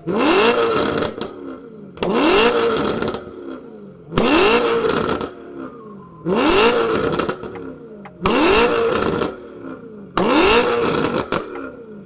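A car engine revved hard six times at a steady pace, about one rev every two seconds. Each rev climbs sharply in pitch, holds near the top for about a second with a loud, rough exhaust, then drops off.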